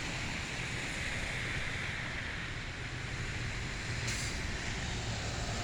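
Steady outdoor background noise: a low rumble under a hiss that swells a little about two seconds in.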